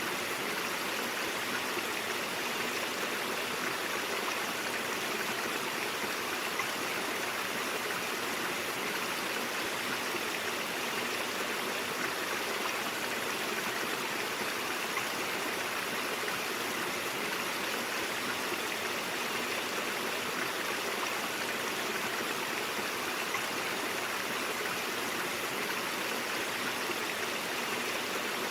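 A shallow brook running over stones: a steady, even rush of flowing water with no breaks.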